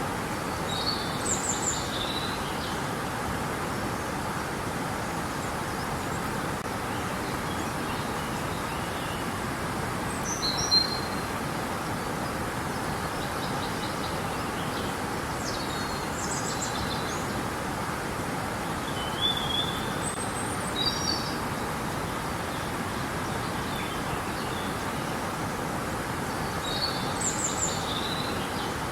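Steady rushing of river water, with short high bird chirps breaking in above it a few times.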